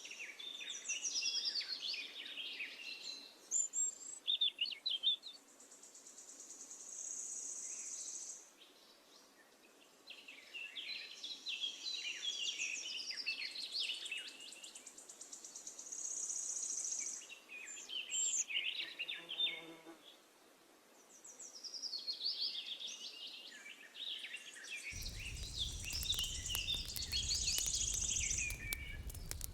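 Songbirds singing in repeated warbling phrases with short pauses between them. Near the end, a dense crackle of many small clicks comes in under the song.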